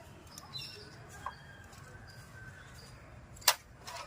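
Faint background with a light tap about a second in and one sharp click about three and a half seconds in, from tools and small parts being handled while the rocker pins and camshaft clamp come off a TVS Ntorq 125's cylinder head.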